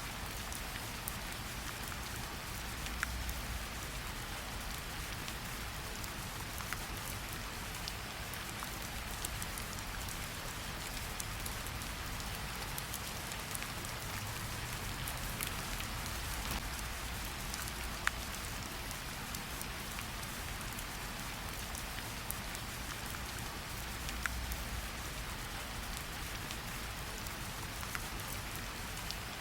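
Gentle rain falling steadily on tree leaves, a constant hiss with scattered individual drops pattering and dripping.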